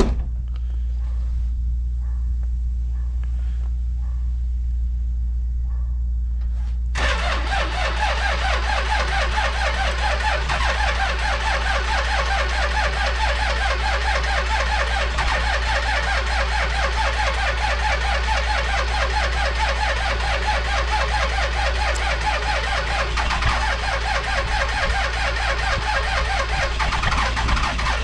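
Car engine being cranked on the starter in freezing cold. It starts suddenly about seven seconds in and churns over in a fast, even rhythm without catching properly, a hard cold start.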